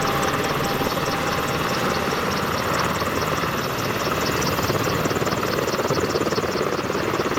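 Military helicopter running steadily: turbine and rotor noise with a fast, even pulsing.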